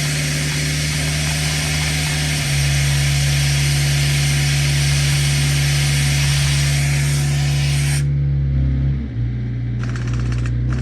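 A power tool, most likely an impact wrench, runs with a dense hiss over a steady engine hum. It cuts off suddenly about eight seconds in, and the tool starts again with rapid hammering near the end.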